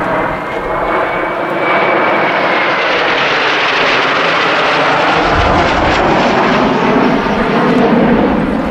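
Kawasaki T-4 jet trainer flying past. The engine roar swells about a second and a half in and stays loud, with a whine that drops in pitch as it passes.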